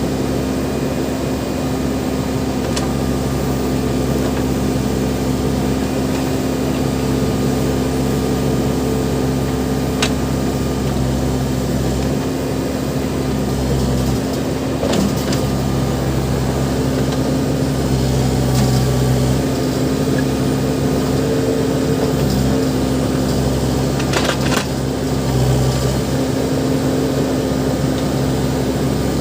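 Backhoe loader's diesel engine running steadily under varying load, with a few sharp clanks.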